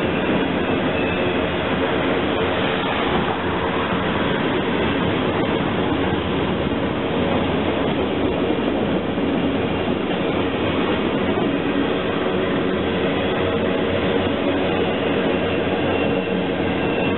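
Freight train of loaded ballast hopper cars rolling past, a steady rattle and rumble of steel wheels on rail.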